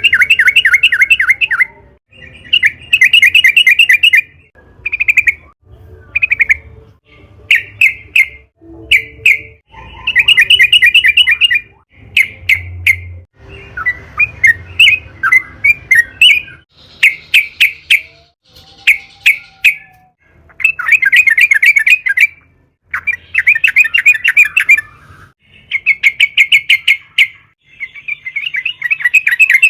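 Yellow-vented bulbul singing loud, rapid chattering phrases of about one to two seconds each, with short gaps and a few single notes between them.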